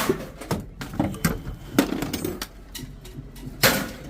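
Pieces of scrap metal being handled and tossed onto a pile: a string of short clanks and knocks, with a louder, longer crash near the end.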